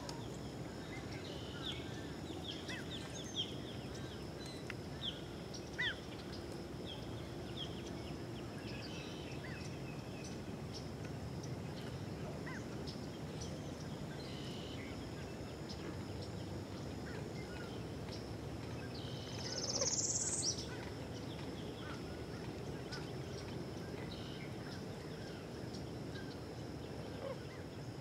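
Wild birds calling: scattered short chirps and whistles throughout, thickest in the first several seconds, with one louder rising call about twenty seconds in, over steady low background noise.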